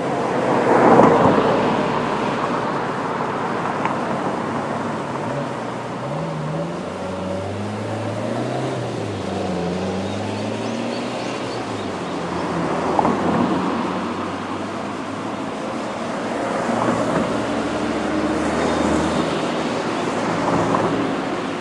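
A JR 211 series electric multiple unit running past at a level crossing: a steady rumble of wheels on rail, swelling several times, with a low motor hum that rises and falls in pitch in the middle.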